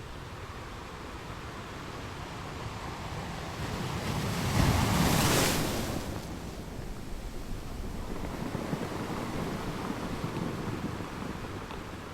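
Ocean waves washing onto a beach. One wave breaks about halfway through, louder than the rest, then settles back into the steady wash of surf.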